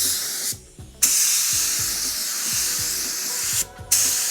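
Paint spray gun spraying primer in three trigger pulls: a short hiss, a longer one of about two and a half seconds, then another starting near the end. Faint background music underneath.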